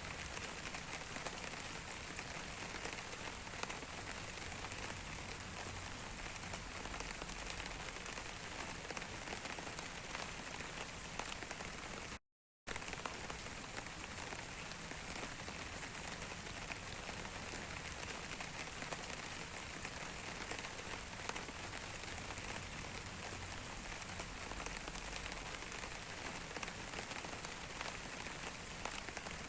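Steady rain falling on a surface, a dense patter of many small drop ticks. The sound cuts out completely for a split second about twelve seconds in.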